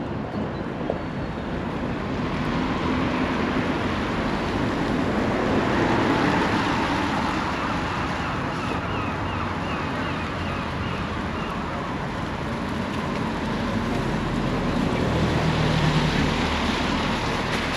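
Road traffic passing, a steady rush of tyre and engine noise that swells twice as vehicles go by.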